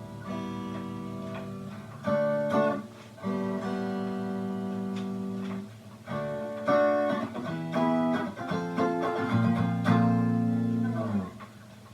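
Electric guitar (a Stratocaster copy) played through a pedal and a small amp: a series of chords, each held ringing for one to two seconds, then a quicker run of changing chords that stops shortly before the end.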